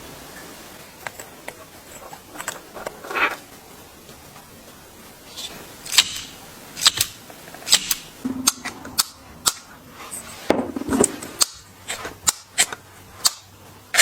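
Irregular sharp clicks and knocks of hard tool parts being handled and set down, a few scattered at first, then about one or two a second from about six seconds in.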